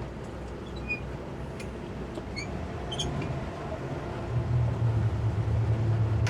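Towboat's twin 200 hp Suzuki outboard motors running at low speed, then throttled up about four seconds in, the steady low drone growing clearly louder as the boat backs up.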